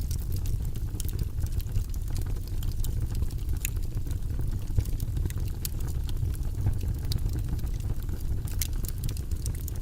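Wood fire burning in a fireplace: a steady low rumble of flames with frequent small crackles and pops scattered through.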